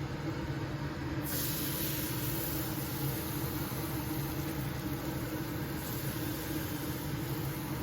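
Air fryer running with a steady fan hum during preheating. A high hiss joins in about a second in and carries on.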